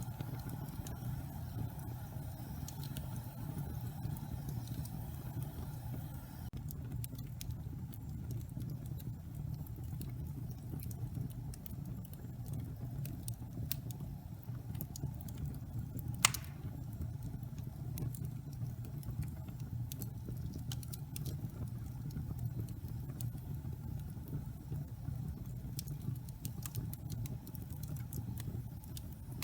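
Log fire in a fireplace crackling, with a steady low rumble of burning and scattered small pops and snaps; one loud pop about halfway through.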